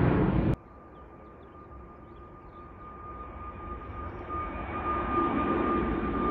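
Airliner engine noise stops abruptly about half a second in. Then another aircraft's engines, a steady high whine over a rumble, grow gradually louder.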